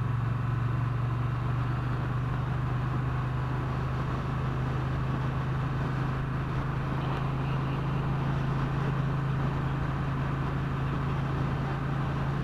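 Triumph Bonneville T120 parallel-twin motorcycle engine running at a steady pace while riding, its note holding even throughout.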